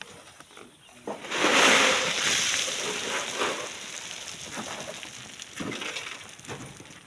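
Sand and rock sliding down a sand cliff face in a small landslide: a rushing hiss that starts suddenly about a second in, peaks quickly and tails off over several seconds, with scattered knocks of falling stones near the end.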